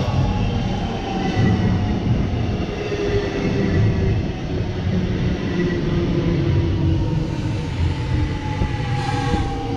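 Electric suburban train running through the station, a heavy low rumble with faint whining tones that slowly fall in pitch.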